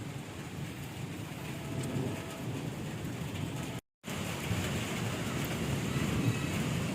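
Steady rushing outdoor noise with a low rumble, broken by a split second of silence a little past the middle.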